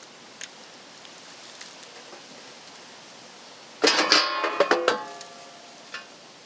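A loud clatter of ringing metal about four seconds in, lasting about a second, as tools or metal parts are handled, with a few light clicks before and after.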